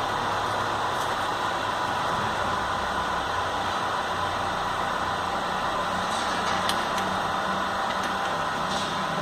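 Motor drive of a blast-furnace discharge gate running steadily on a trial run, with a low hum that shifts about five seconds in.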